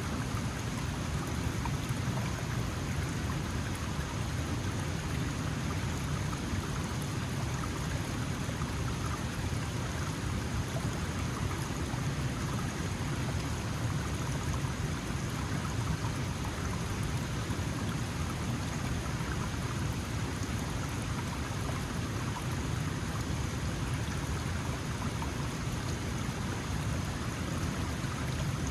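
Small mountain stream flowing: a steady, even rush of water with a strong low rumble.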